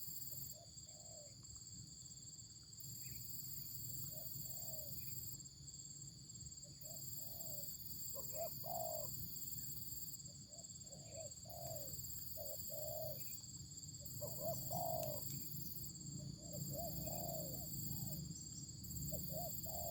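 Doves cooing: short, low, arching coo notes in irregular runs, some in quick pairs.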